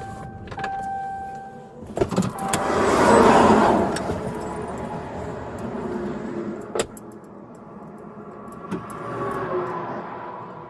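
Car crash: sharp knocks about two seconds in, followed by a loud rush of noise lasting a couple of seconds. Further sharp knocks come later.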